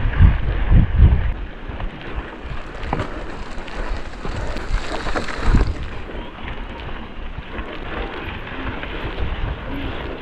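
Wind buffeting a moving camera's microphone during a mountain-bike ride, heaviest in the first second or so, over a steady rushing noise with a few scattered clicks.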